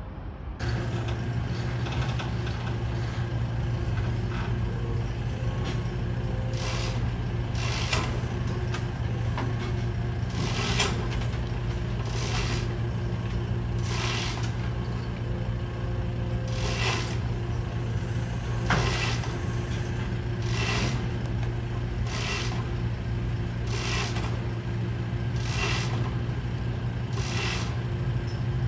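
Heavy vehicle engine running steadily with a low hum, with a short hiss repeating about every one and a half to two seconds.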